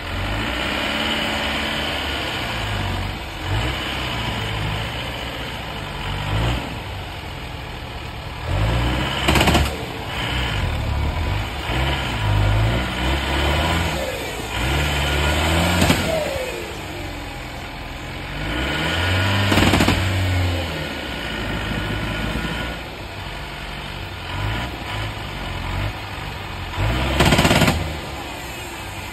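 Off-road 4x4 vehicle's engine running and revving again and again under load in a muddy creek, the pitch rising and falling, with four short loud surges of hard revving.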